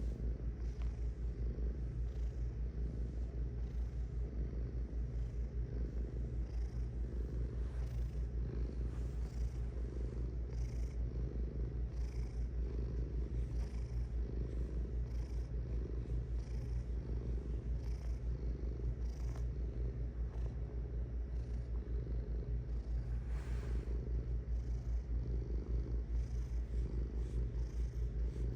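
Domestic cat purring steadily without a break. The purr swells and eases roughly once a second as the cat breathes in and out.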